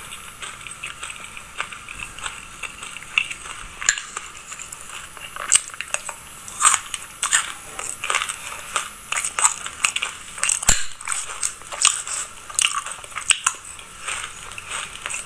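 Close-miked chewing of a mouthful of dry sesame seeds: dense, irregular crunching crackles, with sharper, louder crunches coming often from about four seconds in.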